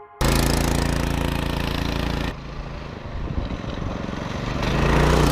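Small 6.5 hp Lifan single-cylinder four-stroke petrol engine running on a home-built fat-tyre bike, easing off about two seconds in and then revving back up.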